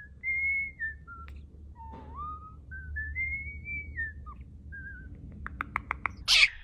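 Bird-like whistling: a string of clear whistled notes, some held steady and some gliding up or down. Near the end comes a quick run of about five clicks and then a short hiss.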